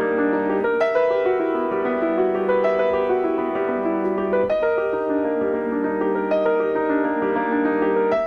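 Piano playing a gentle repeating figure, with a new chord struck about every two seconds.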